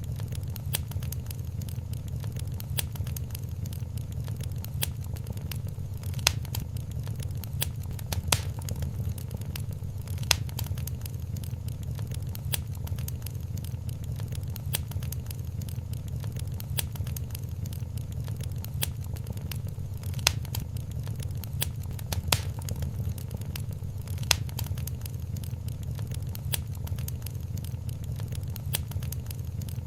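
Wood fire crackling in a fireplace: dense small crackles over a steady low rumble, with sharper single pops every couple of seconds.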